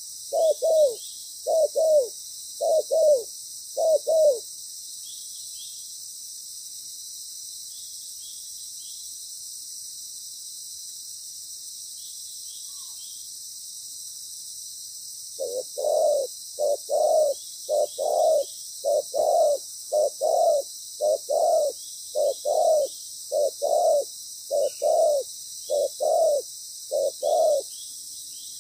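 Spotted dove cooing its song as a series of short, repeated coos: one run ends about four seconds in, and after a long pause a longer run starts about halfway through and stops shortly before the end.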